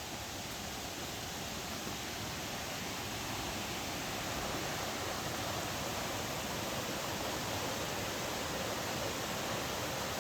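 Creek water rushing steadily, growing a little louder over the first few seconds.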